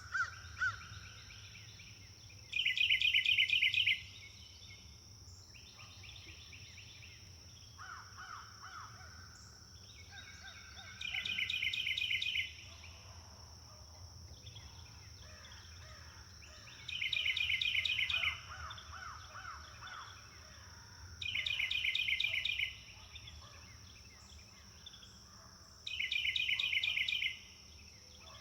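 Wild birds singing. One bird repeats a loud, fast trill about a second and a half long five times, at intervals of several seconds, with quieter phrases from other birds between. A steady high-pitched hiss runs underneath.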